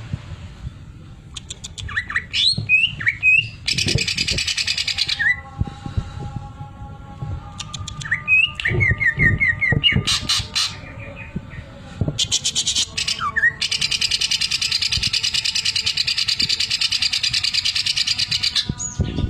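Greater green leafbird (cucak ijo) singing: short whistled and chirped phrases broken by fast, even, buzzing rattles, its imitation of a sewing machine. One rattle lasts about a second and a half about four seconds in, and a much longer one runs for about six seconds in the second half.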